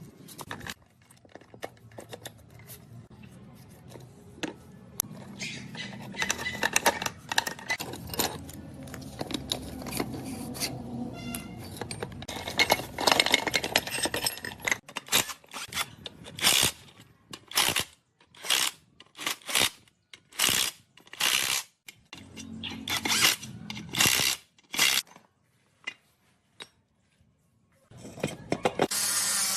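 Hand work on metal parts: scattered clinks and scrapes, then a run of short hissing strokes about one a second, with a steady power tool starting near the end.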